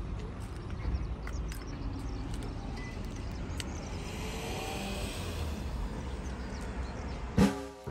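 Outdoor background noise: a steady low rumble with a few faint clicks and short chirps. Music cuts in near the end.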